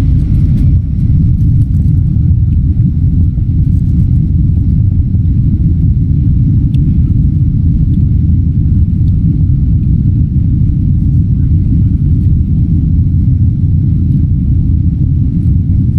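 Airplane taking off: a loud, steady low rumble of the engines and the takeoff roll, with no rise or fall in pitch.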